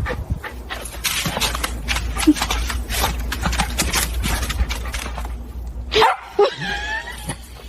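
A dog whimpering and yipping over a run of quick clicks and knocks, with a wavering whine near the end.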